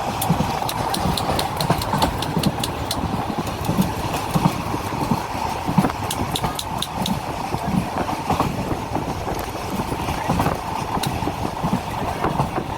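Moving train running on its rails: a steady rumble of wheels and carriages, with runs of rapid sharp clicking twice.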